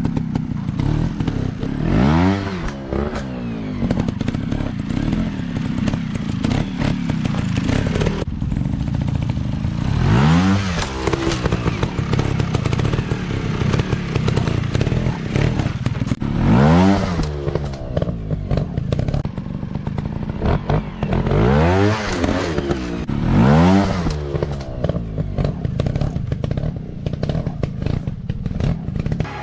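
Dirt bike engine being ridden hard, revving up and dropping back over and over: about six sharp throttle bursts with the pitch climbing and falling, the engine running steadily in between.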